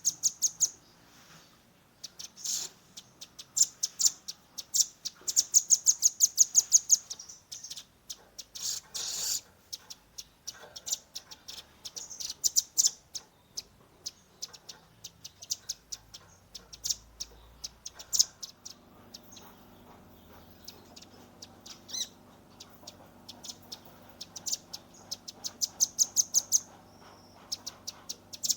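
Velvet-fronted nuthatch (rambatan paruh merah) singing in fast, rapid-fire bursts of sharp, high notes, each run lasting a second or two, with short pauses between. A faint steady low hum joins about two-thirds of the way through.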